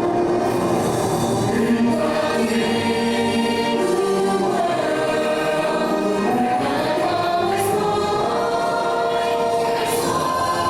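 A choir of voices singing held, gliding lines over musical accompaniment.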